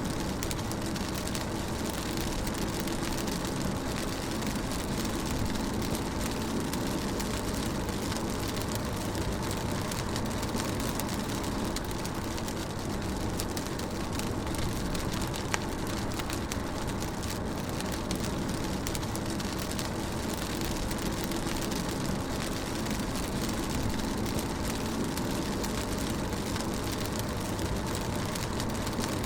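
Rain falling on a moving car, heard from inside the cabin, over the steady drone of the car and tyres on the road. One sharp tick about halfway through.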